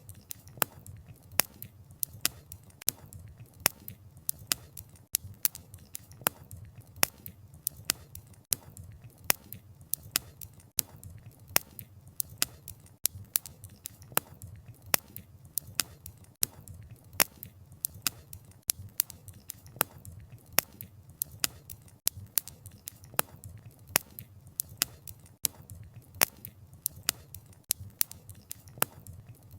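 Wood fire crackling: burning firewood snaps and pops sharply and irregularly, several times a second, over a low steady rumble of the flames.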